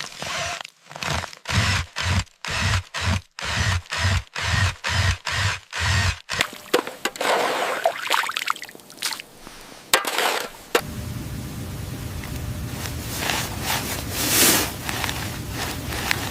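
Rhythmic scraping strokes, about two a second, that stop about six seconds in; after some irregular rustling, a steady hissing noise takes over.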